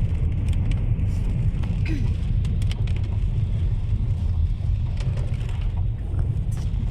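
Steady low rumble of a car driving, heard from inside the cabin, with scattered light ticks.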